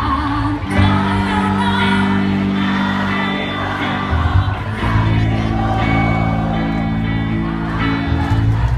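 Loud live music with a singer, played through a PA sound system: steady bass and sustained chords under a held, wavering vocal line.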